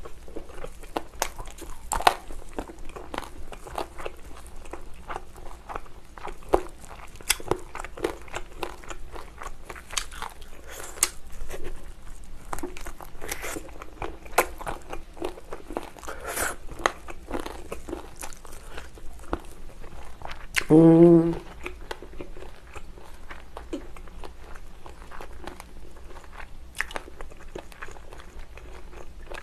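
Close-miked chewing of a sauced chicken drumstick: many wet mouth clicks and smacks as the meat is bitten and chewed. About two-thirds through comes a brief hummed voice sound, the loudest moment.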